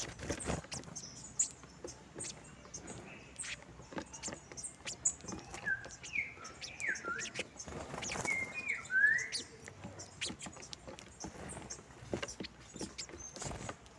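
Saffron finches feeding, giving a run of short gliding chirps between about six and nine seconds in. Frequent light clicks and taps are heard throughout.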